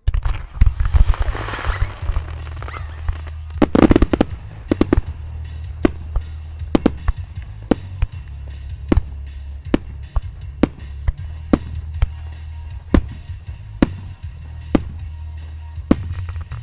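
Music starmine fireworks: aerial shells bursting with sharp bangs, about one to two a second, over music from loudspeakers with a heavy bass line. A loud cluster of bangs comes about four seconds in, and a hissing rush runs through the first few seconds.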